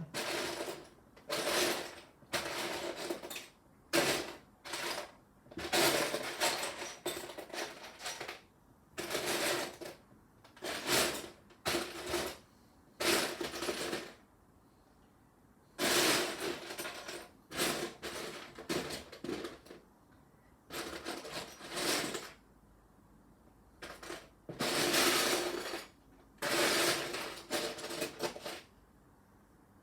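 Loose plastic Lego pieces clattering and rattling as a hand rummages through them, in irregular bursts with a few short pauses.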